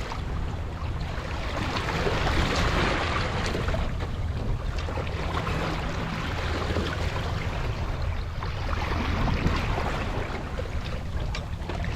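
Water rushing and swishing along a sailboat's hull under sail, swelling a couple of times, with a low wind rumble on the microphone.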